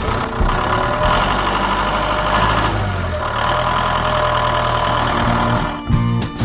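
An engine idling steadily, then cutting off suddenly near the end.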